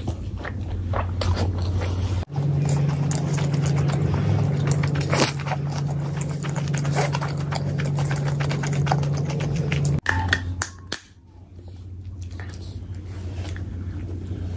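Close-miked chewing and biting of chicken curry and rice, with many short wet mouth clicks, over a steady low hum that steps up in pitch about two seconds in and drops back after about ten seconds.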